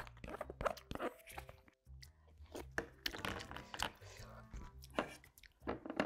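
Close-miked eating: chewing and crunching food, with irregular sharp clicks, over soft background music.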